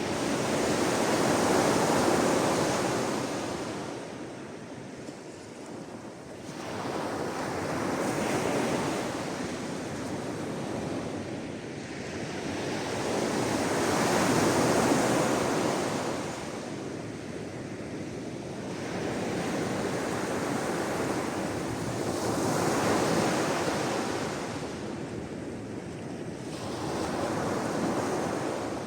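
Sea waves breaking and washing in, the surf swelling and ebbing in slow surges about every six seconds.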